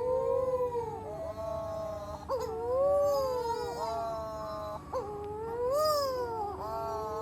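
Young nocturnal seabirds, which the uploader calls storm petrels, wailing: long, wavering moans that rise and fall in pitch, several birds overlapping, with a fresh call starting every second or two.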